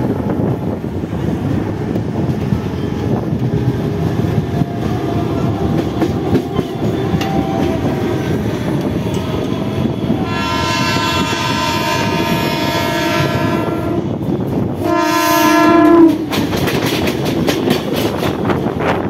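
Mumbai suburban EMU local train running with a steady rumble and clatter of wheels on rail, heard from an open doorway. About halfway in, a train horn sounds one long blast of about four seconds, then a shorter, louder one. Near the end, an oncoming EMU passes close alongside with rapid clatter.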